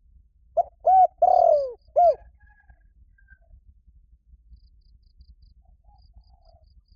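Spotted dove cooing: one phrase of four coos about half a second in, the third drawn out and falling in pitch. It is the male's advertising call, used to lure other doves.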